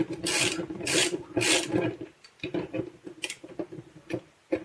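Three rasping, scratchy strokes about half a second apart from a plastic tape gun being handled and worked on, then light clicks and rattles of its parts.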